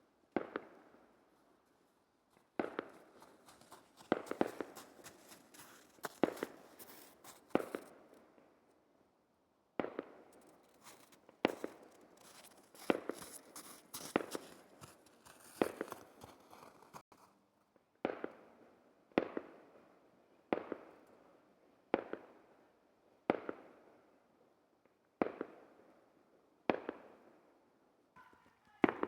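Fireworks shells bursting one after another, a sharp bang every second or so, each trailing off in an echo. There is a stretch of high crackling midway through.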